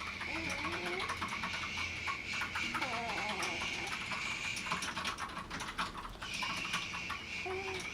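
A sleeping pet making a high, steady whistling noise as it breathes. The whistle holds for about five seconds, stops, then starts again, with faint clicking and a few small squeaks alongside.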